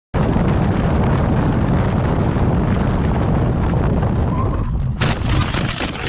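Vehicle collision in dashcam audio: loud steady road and wind rumble on the microphone, then about five seconds in a sudden, loud crash.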